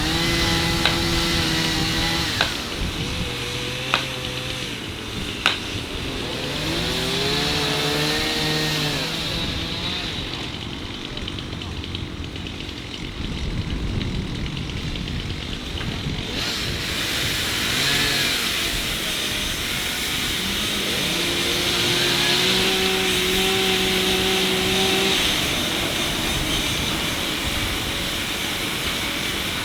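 Tractor engines running in a field, their pitch holding, then rising and falling as they work under load, over a steady noisy background. A few sharp clicks come in the first six seconds.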